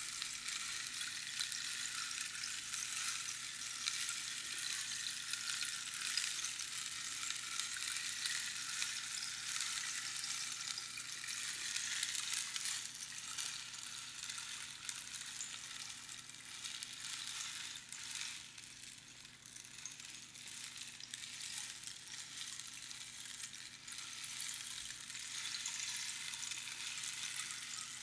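Rainstick: its fill trickling down over the pins inside the hollow tube, a continuous fine rain-like patter. The patter thins and quietens about two-thirds of the way through, then builds up again.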